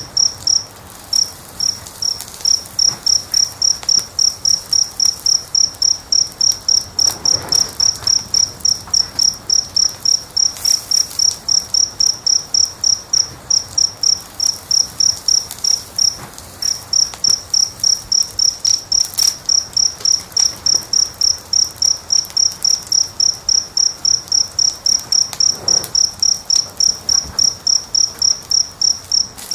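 A cricket chirping steadily, about three short high chirps a second, with a couple of brief pauses. Underneath it are a few faint crackles from the fire.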